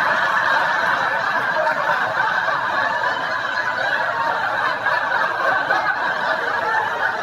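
An audience laughing, a dense, steady wash of many people's laughter.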